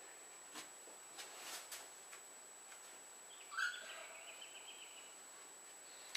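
Faint room tone with a few soft handling clicks and rustles, then about halfway through a short trilling bird call lasting under two seconds.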